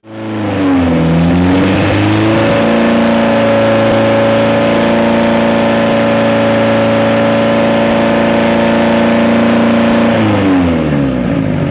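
Mazda 1.7-litre four-cylinder diesel engine revved up and held at high revs for about eight seconds, then let fall back toward idle near the end. The engine blows oil by, which the owner takes as a sign it is worn out.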